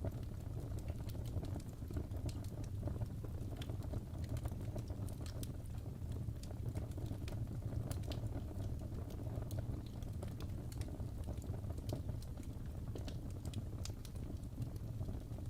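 Wood fire burning in a fireplace, crackling with frequent small sharp pops over a steady low rumble of flames.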